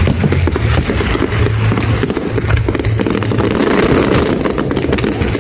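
Fireworks going off in quick succession: a dense run of sharp cracks and pops over a steady low rumble.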